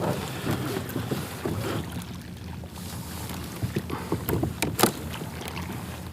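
Water lapping against a kayak's hull with light wind on the microphone, and a few small knocks in the middle.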